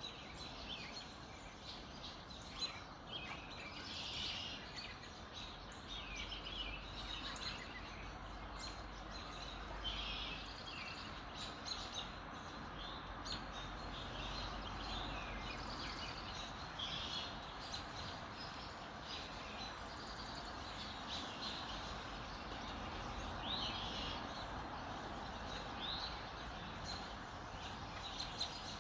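A mixed chorus of songbirds chirping and trilling, many short calls overlapping throughout, over a steady background hiss of outdoor ambience.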